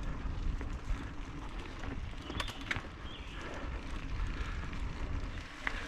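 Mountain bike rolling over a dirt singletrack trail: a steady low rumble of tyres and wind buffeting the helmet-mounted microphone, with a few sharp clicks and rattles from the bike about two and a half seconds in and near the end.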